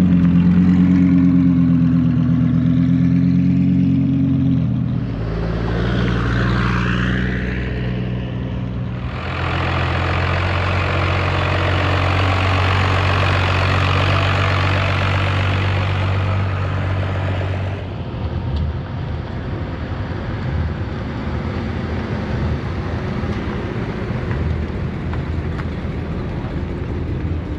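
Vehicle engines running: a steady idle, a brief rising and falling whine about six seconds in, then a louder rushing run from about nine seconds that cuts off near eighteen seconds, leaving a rougher low rumble.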